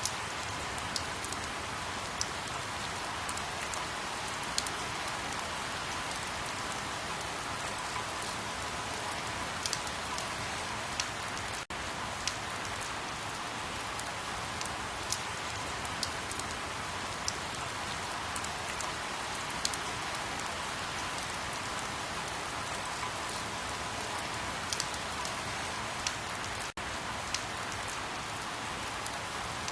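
Steady rain falling on a surface, an even hiss with scattered sharp ticks of individual drops. The sound cuts out for an instant twice, once just before the halfway point and again near the end.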